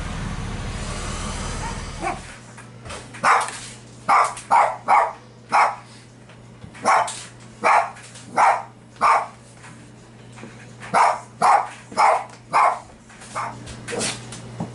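A dog barking repeatedly, about fifteen sharp barks in irregular runs. A steady low rumble plays until it cuts off about two seconds in, before the barking starts.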